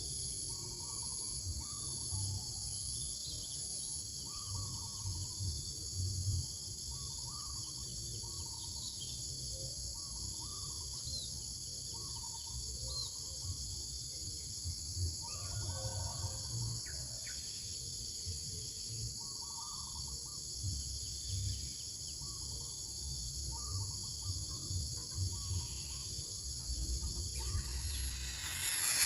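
Steady high-pitched chorus of crickets or similar insects, with faint short calls repeating every second or two beneath it. A hiss swells in near the end.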